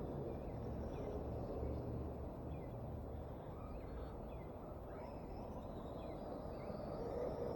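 Birds chirping in short, repeated calls over a steady background of outdoor noise.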